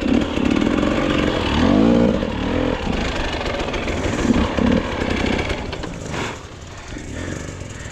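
Dirt bike engine revving in repeated bursts, its pitch rising and falling as the throttle is worked, easing off over the last couple of seconds.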